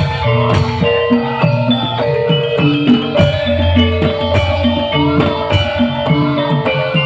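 Live band music at full volume: drums keep a steady beat under a repeating melodic pattern on tuned percussion.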